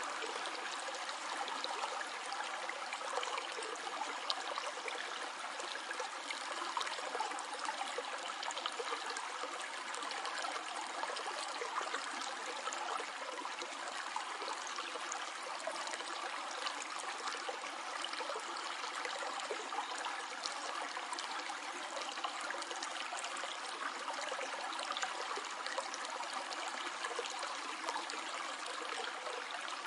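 Small stream flowing steadily, water trickling and splashing over rocks with a continuous babble.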